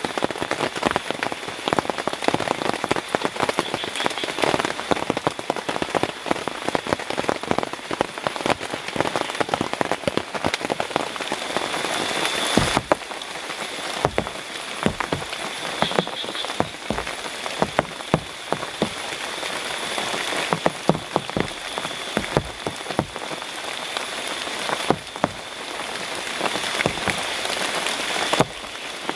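Heavy tropical rain falling steadily, with many sharp drops striking close by, and a steady high-pitched frog chorus behind it. The sound steps abruptly about halfway through and again near the end.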